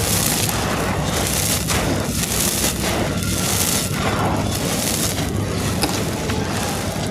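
Dry sand-and-cement chunks crumbling onto a hard floor: a dense, continuous gritty crunching and crackling that swells and eases about once a second.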